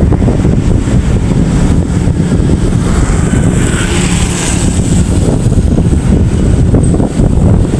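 Steady, loud vehicle rumble mixed with wind buffeting the microphone, as if filmed from a moving vehicle.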